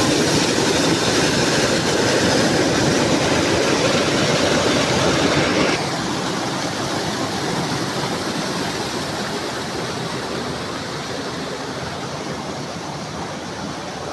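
Waterfall: a steady rush of falling water that drops suddenly in level about six seconds in, then grows gradually quieter.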